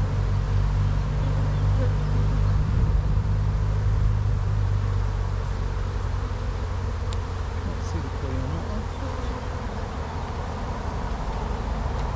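A mass of honeybees buzzing around an opened hive during a frame inspection: a steady, continuous drone of many wings.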